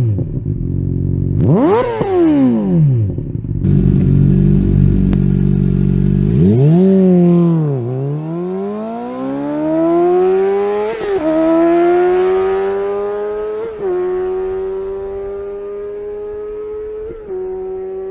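2013 Honda CBR600RR's inline-four with a Two Brothers Black Series slip-on exhaust: a quick throttle blip, a few seconds of idle and another blip, then the bike pulls away hard, its pitch climbing through the gears with three upshifts, fading as it goes.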